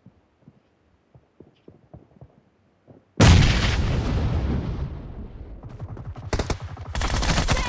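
Video-game gunfire: a few faint taps, then a sudden loud blast about three seconds in that slowly dies away, followed near the end by rapid automatic fire.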